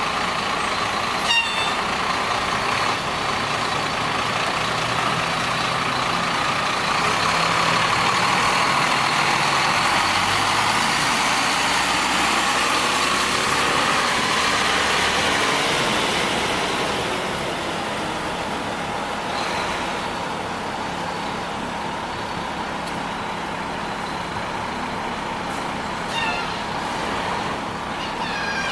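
Heavy truck engines running on a city street, swelling louder in the middle and easing off after about 17 seconds. There are a few short high squeaks about a second in and again near the end.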